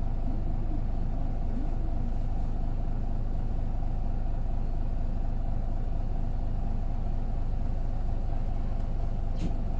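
Isuzu KK-LR233J1 route bus's diesel engine running with a steady low rumble, heard from inside the passenger cabin, with a short click near the end.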